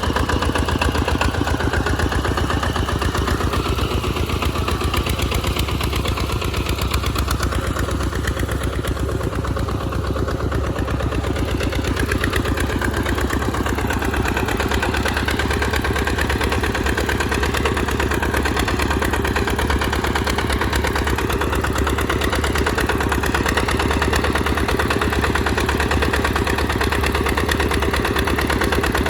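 Tractor engine running steadily with a rapid, even firing beat while the tractor plows through mud.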